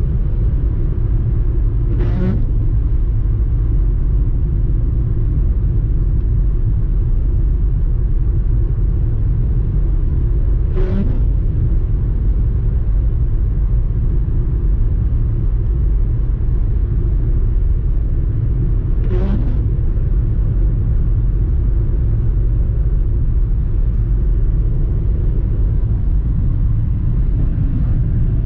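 Car driving, heard from inside the cabin: a steady low road and engine rumble, with a brief windscreen-wiper sweep three times, about every eight and a half seconds, as on an intermittent setting.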